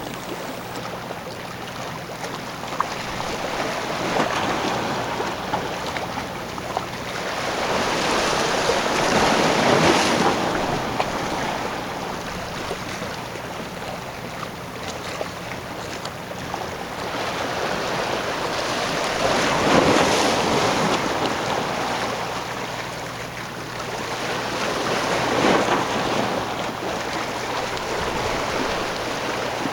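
Harbour water washing and surging in slow swells, loudest about 10, 20 and 25 seconds in, with wind on the microphone and a faint steady low hum underneath.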